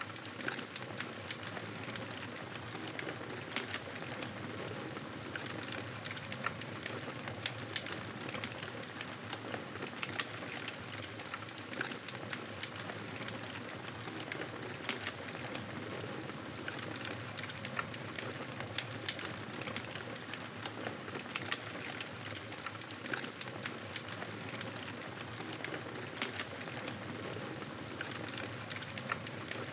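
Campfire crackling: a steady hiss of burning wood, with frequent small pops and snaps scattered irregularly throughout.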